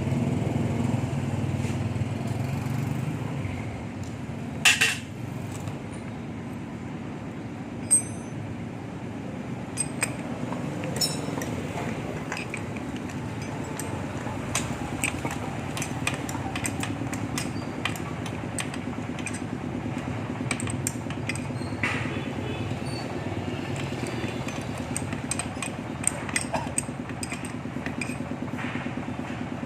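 Metal tools and parts clinking and tapping irregularly during hand work on a pump, with two sharper knocks about five and eight seconds in, over a steady mechanical hum.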